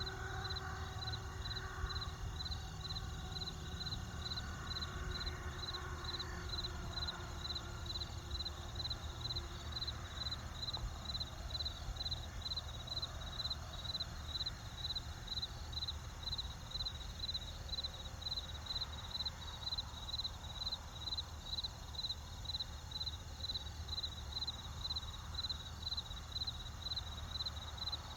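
Cricket chirping in an even rhythm, about two high chirps a second, over a steady low rumble and hiss from the campfire.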